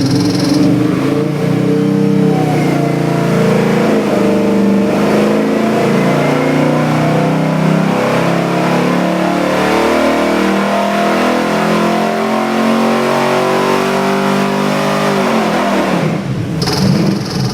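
A 540 cubic inch big-block Chevy V8 with Edelbrock dual four-barrel carburetors running on an engine dyno. Its revs climb steadily for about fifteen seconds in a dyno pull, then drop back sharply near the end.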